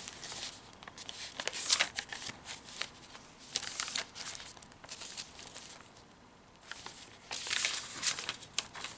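Paper rustling and crinkling in uneven bursts as the pages and tucked-in papers of a handmade paper journal are handled and turned, with a short lull about two thirds of the way through.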